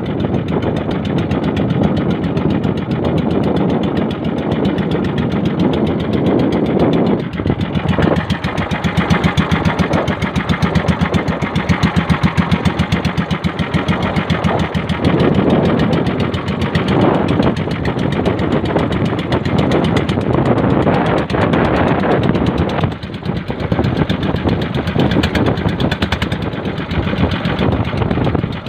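Motorized bangka's engine running steadily under way, a fast, even chugging.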